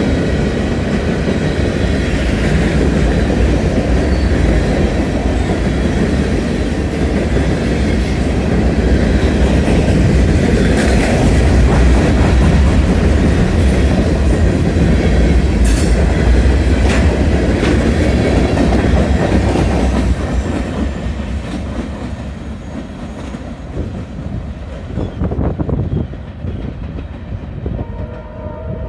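Freight train of covered hopper cars rolling past at speed: steady rumble of wheels on rail with clickety-clack over the joints, fading after about twenty seconds as the train draws away. A faint train horn starts sounding near the end.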